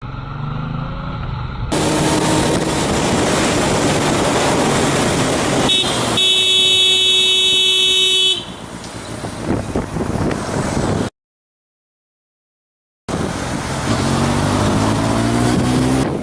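Motorcycle riding in traffic with loud wind and road noise. About six seconds in, a vehicle horn blares for about two seconds. After a two-second drop-out, an engine accelerates with rising pitch.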